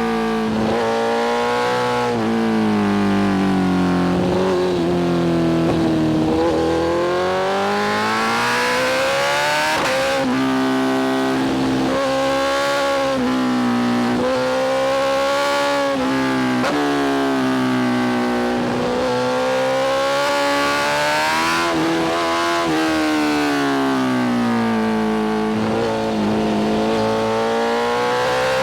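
BMW S1000RR's inline-four engine through a full titanium Spark exhaust under riding load. Its revs climb and fall back again and again, with breaks in the pitch at the gear changes and throttle lifts.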